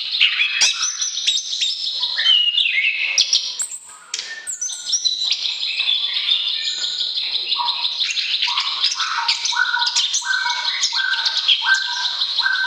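Songbird song: a varied, fast-changing run of high chirps, whistles and trills, with a string of repeated lower notes, about two a second, from about eight seconds in.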